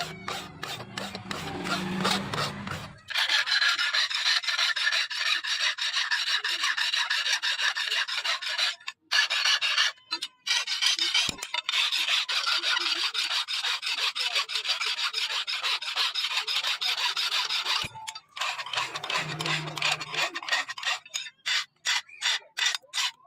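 Continuous rasping scrape of steel being filed or abraded, likely shaping a leaf-spring steel knife blade, with brief pauses about 9, 10 and 18 seconds in.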